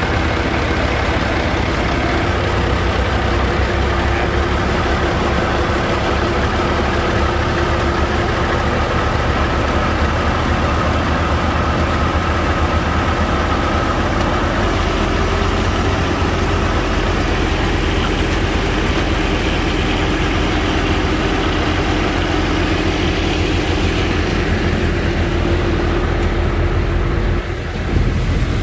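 The engine of a sand-pumping boat's pump rig running steadily, just before the pump starts drawing sand. There is a brief dip and jump in level near the end.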